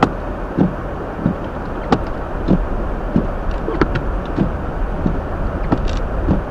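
Hyundai Elantra driving on a snowy road, heard from inside the cabin: a steady rush of road and tyre noise. A soft, regular thud sounds about every 0.6 s, and a sharper click about every two seconds.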